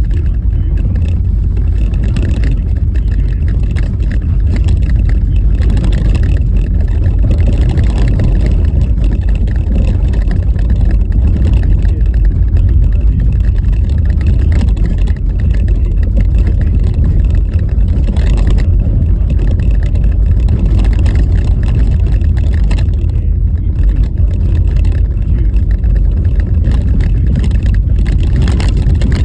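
Car driving on a rough, bumpy road in a blizzard: a loud, steady low rumble of tyre and road noise mixed with wind.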